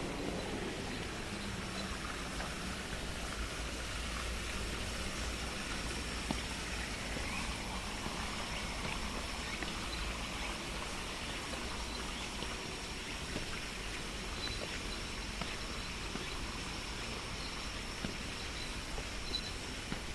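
Steady rush of flowing stream water, with a faint, steady, high cicada drone above it.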